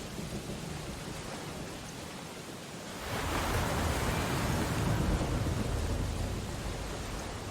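Steady rain on window glass over a storm-surf background. About three seconds in, a wave surges and crashes, a rush of hiss and low rumble that builds and then slowly fades.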